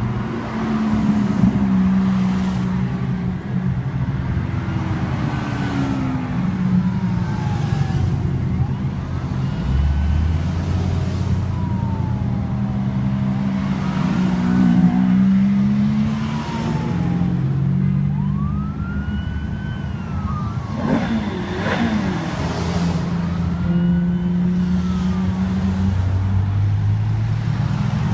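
Cars driving past on a street, engines running and revving, with pitches rising and falling through the gears; the busiest, loudest pass comes a little past two-thirds of the way in.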